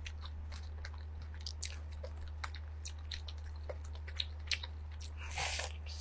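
Close-miked chewing of deep-fried breaded seafood-cheese balls: scattered soft crunches and wet mouth clicks, over a steady low hum.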